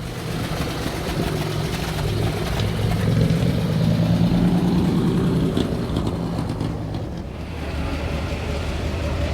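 A car engine running at low speed as a vehicle rolls slowly past, growing louder through the middle and fading a little near the end.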